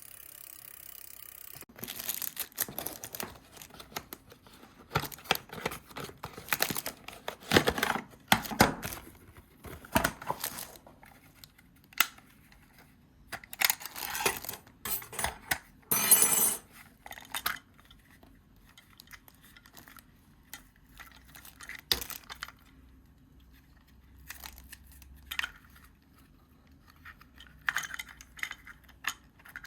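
Plastic packaging crinkling and tearing, with light clicks and clinks of small parts being handled in irregular bursts. Faint music fades out in the first two seconds.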